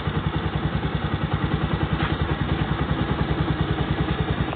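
Honda TMX Supremo's single-cylinder four-stroke engine idling steadily with an even, rapid beat. It is running again with its worn bearing on the clutch side newly replaced.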